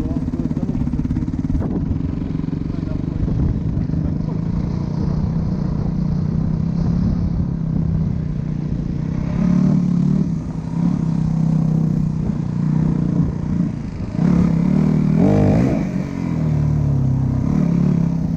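Dirt bike engine running, its pitch rising and falling as the throttle is opened and eased, with the revs climbing higher about two thirds of the way in.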